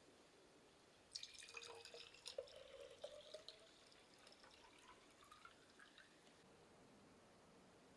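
Liquid poured into a small cup, with a faint gurgle starting about a second in and a trickle whose pitch rises as the cup fills, then stopping.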